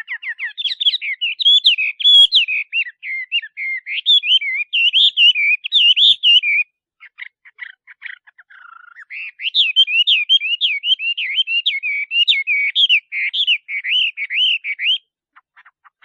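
Male Chinese hwamei singing: fast runs of varied, rising and falling whistled notes. About halfway through the song drops to a quieter, lower passage for a couple of seconds, then the loud phrases resume and stop about a second before the end.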